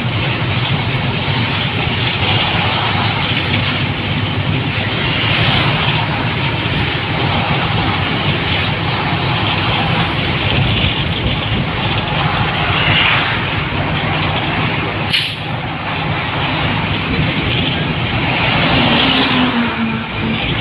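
Steady road and traffic noise of a vehicle travelling along a highway, with a brief sharp click about fifteen seconds in.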